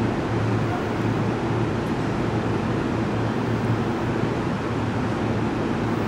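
A JR Takasaki Line electric train making a steady rumble and hiss with a constant low hum, with no change in pitch or loudness.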